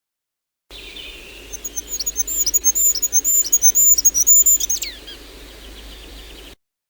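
Small bird singing a very high, thin song of quickly repeated short notes, ending in a quick falling flourish.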